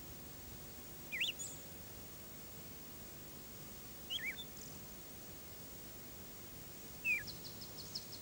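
Small bird chirping three times, about three seconds apart, each a quick high call; after the last comes a short run of high ticks. Beneath it runs a faint steady hiss and hum.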